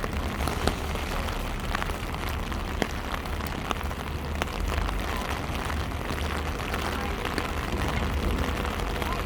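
Heavy rain falling and spattering on hard surfaces, a steady hiss with scattered sharp drip ticks, over a steady low rumble.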